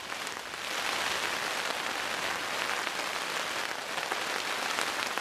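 Heavy rain falling steadily, a dense hiss of drops that grows louder about a second in.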